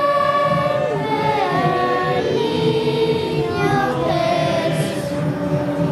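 A mixed choir of children and adults singing, the voices holding long notes and moving together from pitch to pitch.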